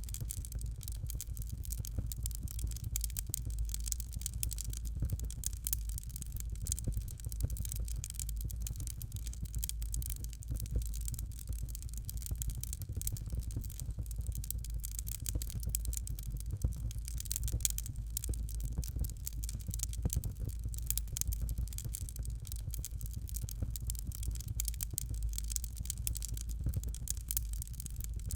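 Fireplace fire crackling: a dense, irregular stream of small snaps and pops over a steady low rumble.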